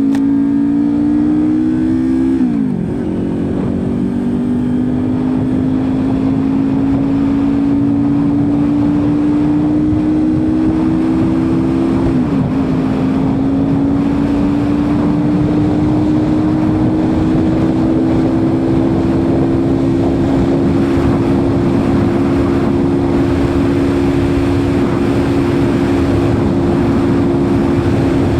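Kawasaki Ninja 400 parallel-twin engine running under way, its pitch climbing slowly and dropping sharply at two gear changes, about two and a half seconds in and about twelve seconds in, with heavy wind noise.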